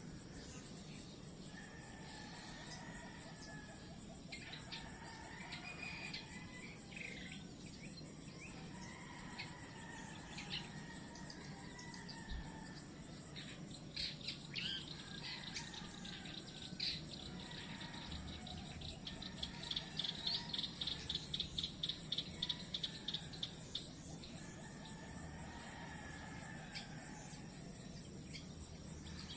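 Birds calling and chirping over a steady background hiss of outdoor ambience. A fast, even run of sharp chirps, about three a second, comes in about two-thirds of the way through.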